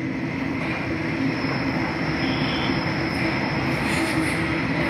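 Sydney Trains double-deck electric suburban train running past through the station: a steady rumble of steel wheels on rail with a held electric motor hum.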